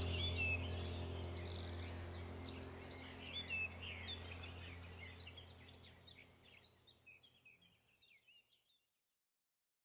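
Small birds chirping and calling in quick, overlapping bursts over a low steady hum, the whole sound fading out to silence by about halfway through.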